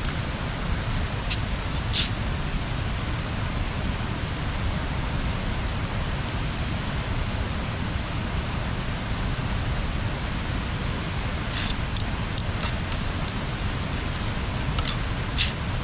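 Wood bonfire burning: a steady rushing noise with occasional sharp crackles and pops, a cluster of them about twelve seconds in and two more near the end.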